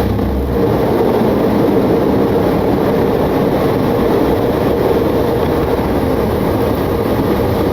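Steady loud rumble and rush of air in a Boeing 727-200 cockpit on approach, as the landing gear extends into the airflow.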